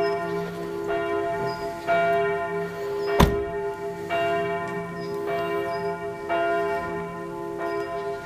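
Church bells ringing, a new stroke about once a second over a steady, sustained hum. A single sharp knock a little past three seconds in is the loudest moment.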